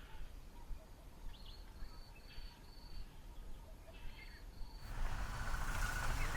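Outdoor bush ambience with faint, repeated short high-pitched bird calls. About five seconds in, a louder rushing noise comes in.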